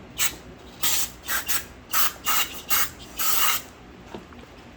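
Short, repeated hissing squirts of spray on carburetor parts being cleaned, about eight bursts with the longest one about three seconds in.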